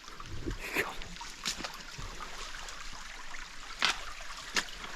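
Stream water trickling, with a few short sharp knocks scattered through.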